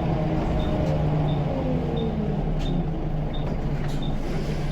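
Scania L94UB bus's diesel engine running, its note falling in the first couple of seconds as the bus slows, then steady. A light tick repeats about every 0.8 seconds.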